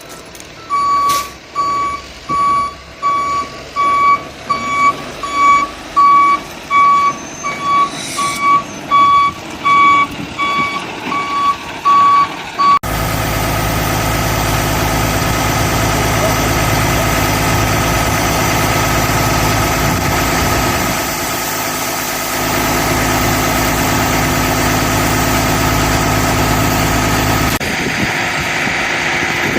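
A truck's backup alarm beeping at a steady pace, about one and a half beeps a second, over a low engine, then giving way abruptly a little under halfway through to the heavy truck's engine running steadily.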